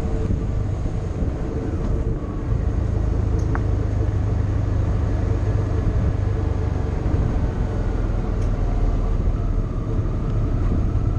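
Motorcycle engine running steadily at cruising speed, with low road and wind rumble and a slight rise in engine pitch near the end.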